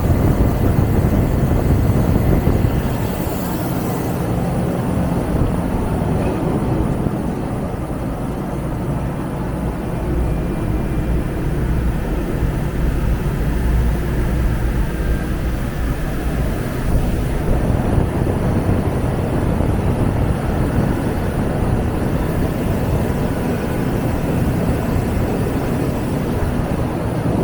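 Wheel-repair lathe running as it cuts a wheel: a steady low mechanical rumble and hum.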